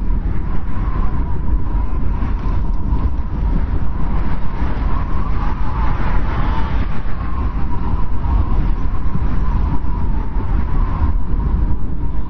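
Snowstorm wind blowing steadily: a deep rumble with a thin whistling howl over it that swells about halfway through.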